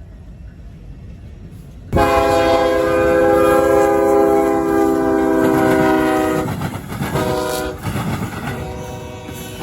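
Locomotive air horn sounding a long blast starting suddenly about two seconds in, then a short blast, over the rumble of a train on the rails.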